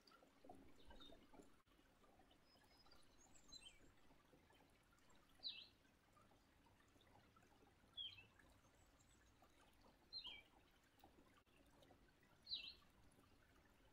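Near silence: faint room tone with four short, faint high chirps spaced a couple of seconds apart, like a small bird calling in the background.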